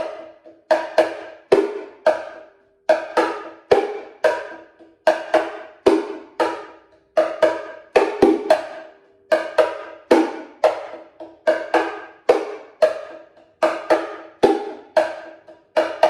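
Bongo Cajon played by hand: a slow, steady groove of wooden hand strokes repeating in a short pattern about every two seconds, each stroke ringing briefly with a pitched tone.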